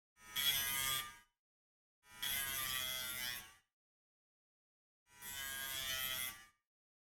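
Dremel rotary tool with a grinding wheel run in three short bursts of about a second each, grinding a small metal part.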